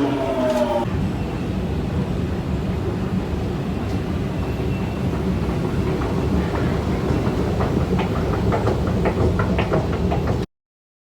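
Passenger train running on the track, a steady rumble from inside the carriage. A falling motor whine trails off in the first second, and a run of sharp clicks from the wheels comes in the second half. The sound cuts off suddenly near the end.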